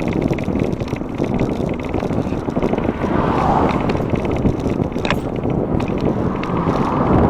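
Wind rushing over the microphone of a moving bicycle, with small rattles from the bike and road traffic swelling past about halfway through and again near the end.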